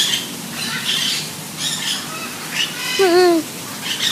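A bird squawking in a series of short harsh calls, about one a second, with one louder, lower-pitched call about three seconds in.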